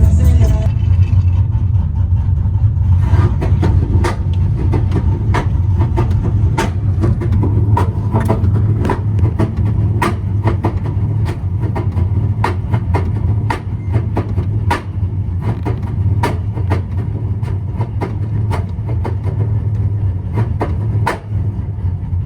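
Truck engine running with a loud, steady low rumble, with scattered sharp clicks throughout.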